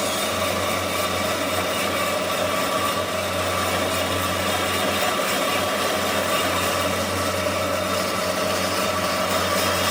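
Woodworking machinery running steadily, a dense mechanical noise with a low hum and a few held tones.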